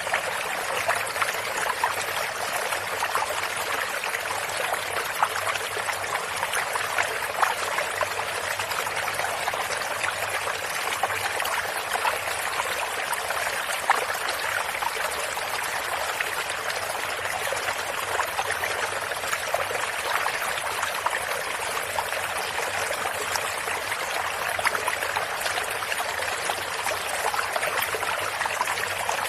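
Small stream or brook running over stones, with steady trickling and splashing.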